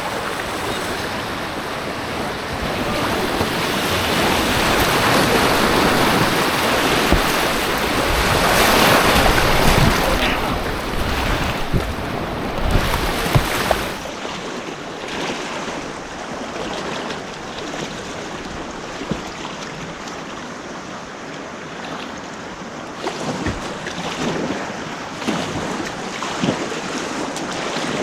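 Rushing white water with wind on the microphone, swelling to its loudest around the middle and then dropping away sharply about halfway, leaving a softer wash of water with scattered short knocks and splashes.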